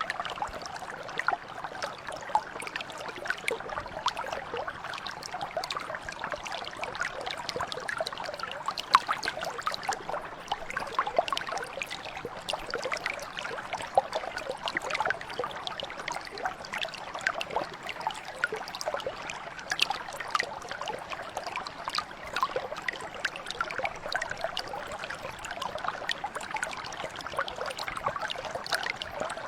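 Small stream flowing over stones, a steady babble of water with many little splashes and gurgles.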